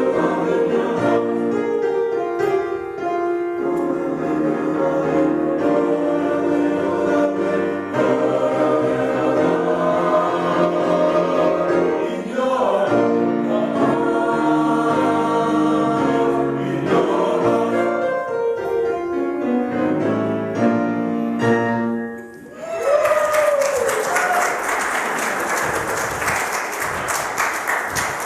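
A choir singing a hymn, ending about six seconds before the close, followed by applause with a brief whoop.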